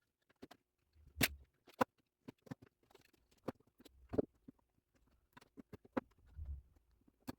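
Hands handling and fitting the pieces of a homemade gauge pod: scattered light clicks and taps, with a few dull thumps, about a second in, around four seconds and near six and a half seconds.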